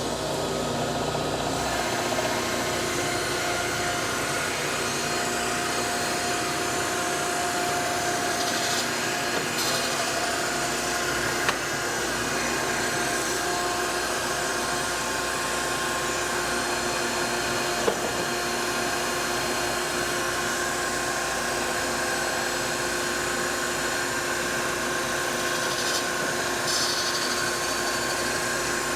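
Gallmeyer & Livingston No. 55 surface grinder running steadily, its wheel spinning while the table traverses during a light grinding pass. A brighter hiss rises briefly twice, and there are two short sharp ticks.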